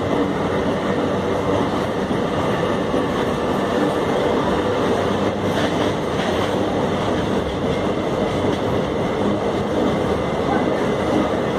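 Train of empty iron-ore wagons rolling past, a steady rumble and rattle of wheels on the rails, with a few wheel clacks about halfway through.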